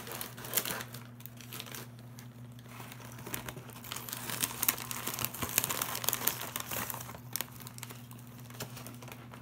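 Snack bag crinkling as it is handled, a dense crackle with sharp ticks that is busiest in the middle, over a steady low hum.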